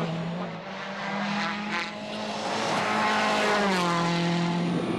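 Rally car engine running hard under load, its pitch stepping with gear changes: up shortly after the start, down near four seconds in, and up again at the end.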